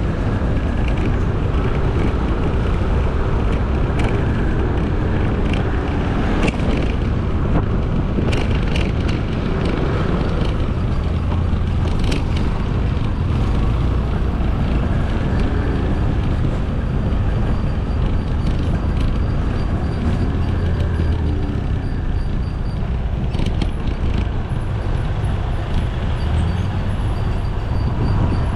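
A motorcycle on the move in city traffic: a steady rush of engine, road and wind noise, with traffic around it and a few short knocks.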